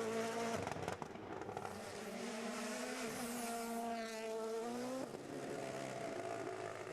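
Rally car engine at high revs on a stage. It comes off the throttle about half a second in, builds revs again, and changes gear about five seconds in.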